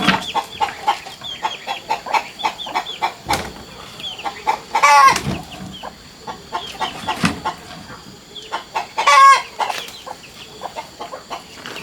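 A flock of chickens clucking in many quick, short calls, with two louder, drawn-out squawks about five and nine seconds in.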